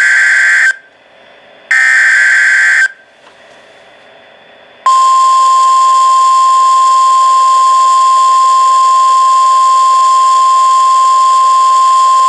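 NOAA Weather Radio alert received on a Uniden BC75XLT scanner, heard through its small speaker. It begins with two short buzzy bursts of SAME header data. After a pause of about two seconds, the steady 1050 Hz warning alarm tone sounds about five seconds in and holds unchanged, signalling a new watch.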